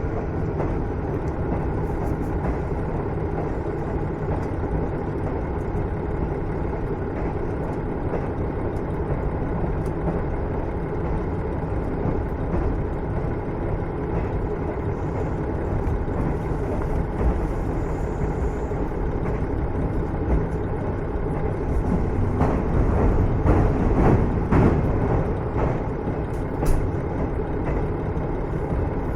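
Onboard running sound of a JR KiHa 110-series diesel railcar (car KiHa 112-3) cruising: a steady diesel engine drone with wheel-on-rail noise. A spell of wheel clatter comes about two thirds of the way through.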